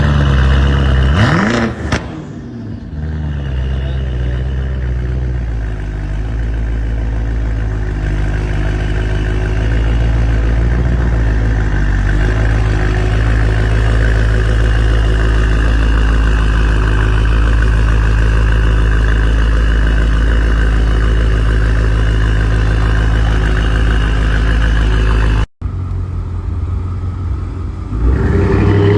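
2016 BMW 550i's twin-turbo V8 exhaust: a quick rev about a second in, then the engine settling into a steady idle. Near the end, after a break, it revs up again.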